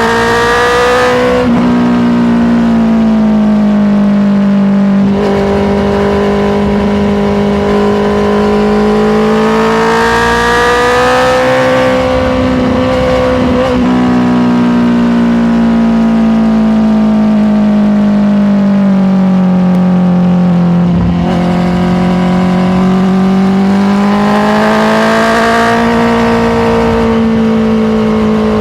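Honda CBR650R inline-four engine running under way, its pitch dropping sharply twice in the first five seconds. It then climbs, breaks off about fourteen seconds in and falls slowly, and rises again before levelling off.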